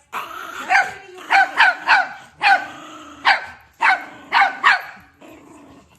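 Chihuahua barking in a quick run of short, high barks, each dropping in pitch, with a quiet pause near the end.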